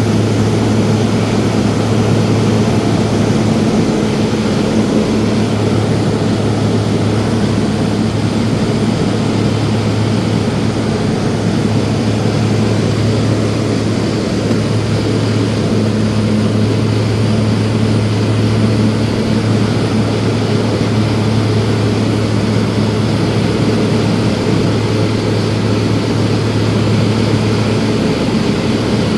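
Small propeller plane's engine and propeller droning steadily, heard from inside the cabin, with a strong low hum and a constant rush of noise.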